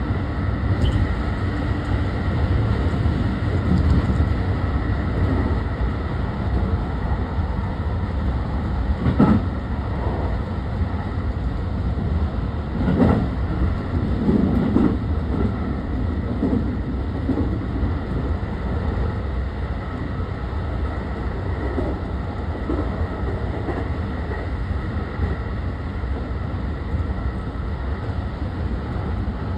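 Running noise inside a JR 223 series 2000 subseries trailer car at speed: a steady rumble of steel wheels on rail, with a few heavier knocks about nine and thirteen seconds in.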